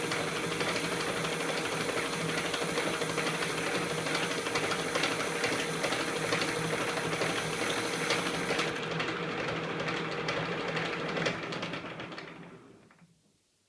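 KART E1N metal lathe running with a steady hum and hiss. The high hiss stops about nine seconds in, then the machine winds down to near silence near the end.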